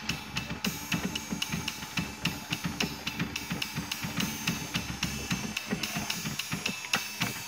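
A drum kit being played during a sound check: a steady, even beat of kick drum and snare with hi-hat and cymbal hits.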